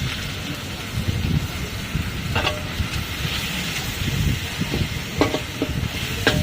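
Food sizzling as it is stir-fried in a wok, with a low rumble underneath. A metal spatula clanks against the wok a few times, sharp ringing strikes about two and a half seconds in, again about five seconds in, and several near the end.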